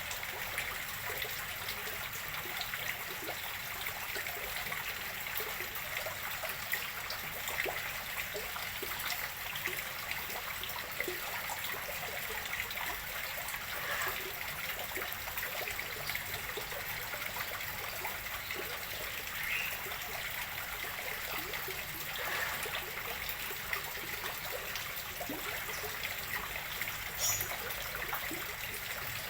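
Water steadily trickling and splashing into a fish pond as it is being refilled.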